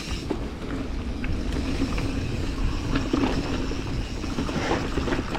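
Mountain bike rolling fast down a dirt trail: tyres on dirt, with the chain and frame clattering over bumps in many short knocks, under steady wind rumble on the helmet-mounted camera's microphone.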